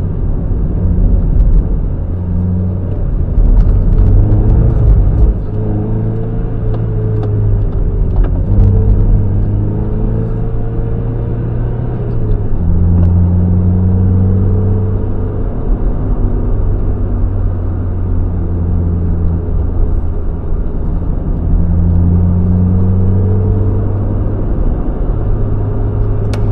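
Mazda MX-5 NB's 1.8-litre four-cylinder engine heard from inside the car on track, its note rising and falling repeatedly as the revs climb and drop through the gears.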